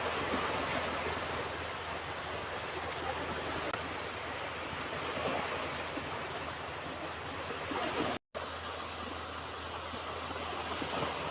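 Ocean waves washing onto a beach: a steady surf rush. The sound cuts out for a fraction of a second about eight seconds in.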